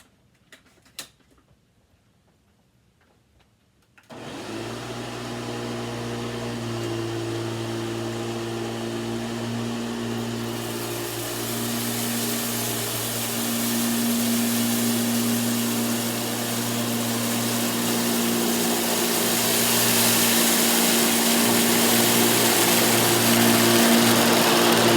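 Hoover WindTunnel 2 upright vacuum cleaner switching on suddenly about four seconds in, after a couple of faint clicks, then running steadily with a hum and a hiss that grows louder as it sucks up rice from the carpet.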